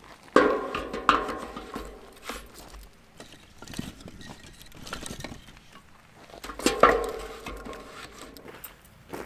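Metal cookware being handled: a few sharp clanks, each ringing on briefly, with lighter taps and clinks between them.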